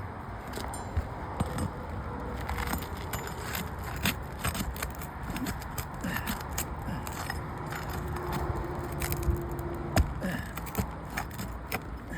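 Scattered metallic clicks, taps and scrapes of hand tools and nails being worked against asphalt 3-tab shingles during nail removal, over steady low background noise.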